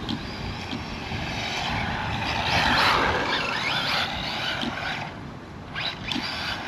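Electric RC car's motor whining as it drives fast along a road, the pitch rising and falling as it speeds up and slows, loudest about three seconds in, with tyre noise.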